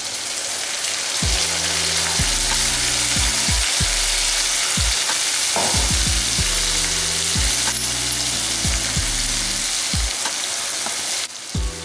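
Ginger-garlic paste sizzling as it hits hot oil and frying onions in a steel kadai: a steady, loud frying hiss with a few faint clicks, cutting off shortly before the end.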